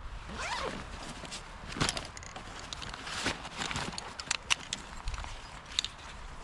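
Footsteps crunching through twigs and leaf litter, with irregular sharp snaps and clicks.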